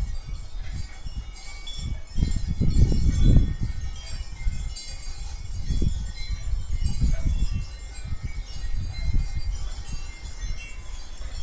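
Wind chimes tinkling irregularly, with scattered high ringing notes throughout. Low gusts of wind rumble on the microphone, strongest about two to three and a half seconds in.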